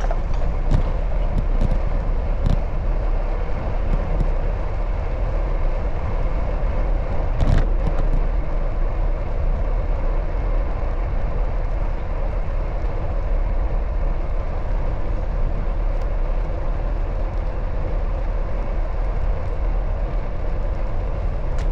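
Steady wind rumble and road noise from a bicycle ride in city traffic, with a short sharp knock about seven and a half seconds in.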